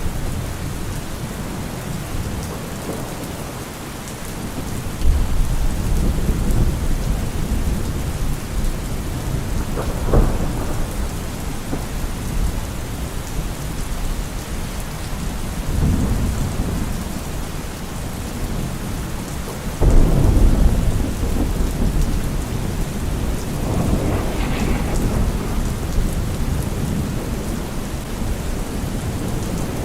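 Steady heavy rain with rolling rumbles of thunder, several times over; the loudest peal breaks in suddenly about two-thirds of the way through.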